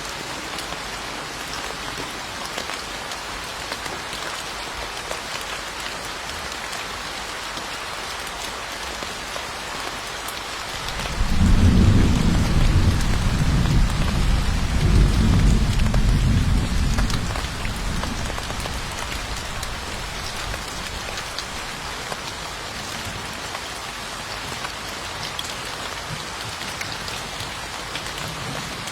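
Steady heavy rain falling on a surface, with a low rumble of thunder that swells about a third of the way in, lasts several seconds and fades away.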